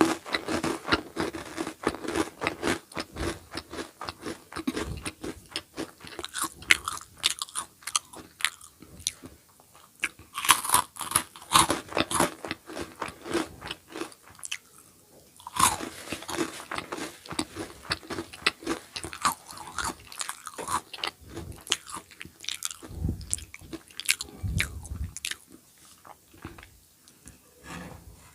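Close-miked eating ASMR: a crunchy snack being bitten and chewed, with dense, irregular crackling crunches.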